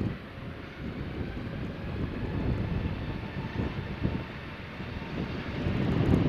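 Jet airliner's engines at takeoff thrust, a low rumble with a faint whine that grows louder, loudest near the end as the aircraft passes close by.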